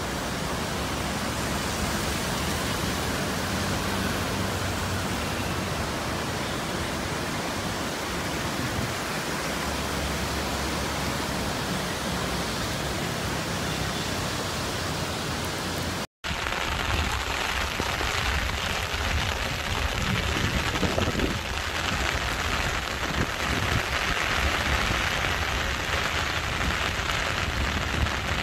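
Steady rushing noise of churning floodwater and wind. After a sudden cut just past halfway, heavy rain falls, louder and gustier.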